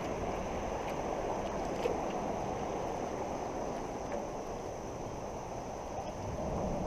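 Fast-flowing floodwater of a creek rushing steadily past a canoe, with a few faint clicks.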